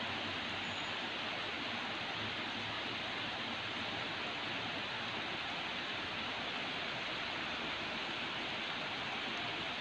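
Rain falling steadily over a city, a constant even hiss with no single drops or other events standing out.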